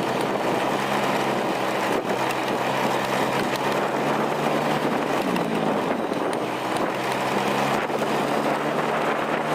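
Vehicle engine running steadily under way, with heavy wind noise on the microphone. The engine note drops and climbs back about halfway through.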